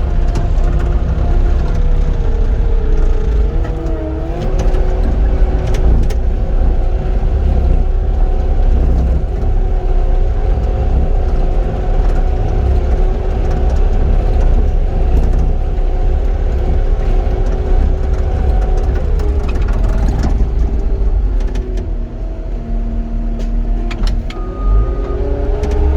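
Cat 259D compact track loader's diesel engine running at high revs while grading. The pitch sags briefly about four seconds in, drops lower for several seconds near the end, then rises again.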